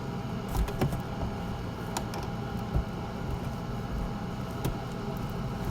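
Steady low mechanical hum in the room, with a few short clicks and knocks scattered through it as small objects are handled.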